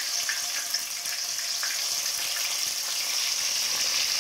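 Whole baby brinjals (eggplants) sizzling in hot oil, a steady hiss with small crackles, as more are dropped into the pot.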